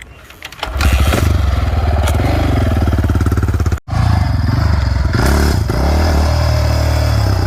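Dirt bike engine comes in loud under a second in and runs at low speed, its pitch rising and falling with short throttle blips as the rider works it slowly over a log. The sound drops out for an instant just before the middle, then the engine carries on.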